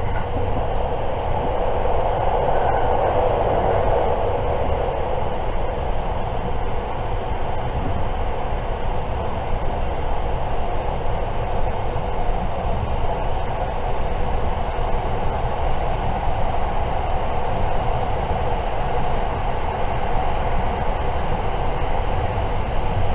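Steady running noise inside a JR 681 series limited express electric train: an even rumble of wheels on rail with a rushing hiss, heard from the passenger cabin.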